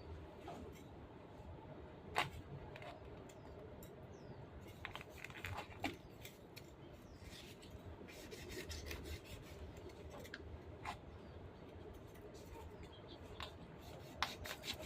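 Faint handling noises: scattered short clicks and rubbing or scraping sounds.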